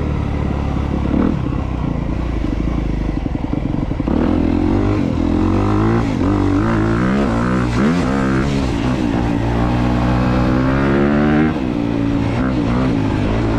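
2022 Honda CRF250R's single-cylinder four-stroke engine under a rider: steady for about four seconds, then revving up and down over and over as the throttle is worked, easing back a little before the end.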